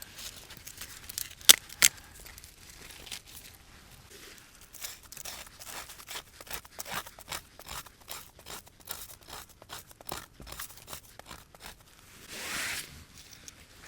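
Crinkling and tearing handling noises made of irregular clicks, with two sharp louder clicks about a second and a half in, a dense run of small crackles through the middle, and a brief rustle near the end.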